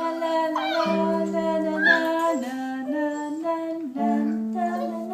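Piano being played while a Shar Pei–Shepherd mix puppy howls along over the notes, with wavering howls that slide up and down in pitch about half a second and two seconds in.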